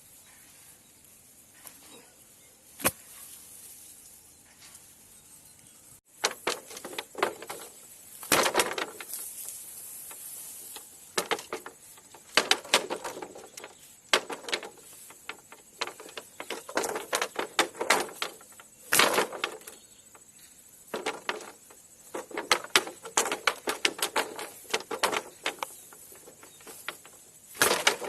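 Handwork noises: irregular sharp clicks, taps and rustling from materials being handled. The first six seconds are faint with a single click, then the clicks and rustles become dense and louder.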